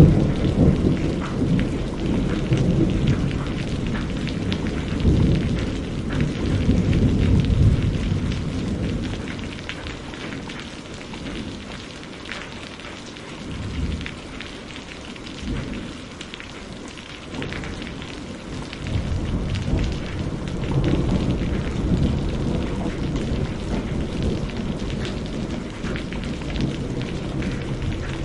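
Steady rain pattering, with rolling thunder rumbling under it. The thunder is heavy for the first several seconds, dies down midway and swells again about two-thirds of the way through.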